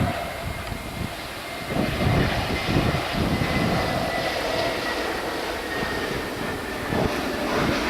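Jet airliner's engines running as it passes, with a thin high whine sliding slowly down in pitch over a rough rumble.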